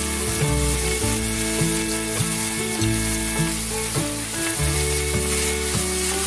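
Diced chicken and vegetables sizzling in a hot wok as a seasoning sauce is poured in and stirred, with a steady hiss. Instrumental background music with held, changing notes plays underneath.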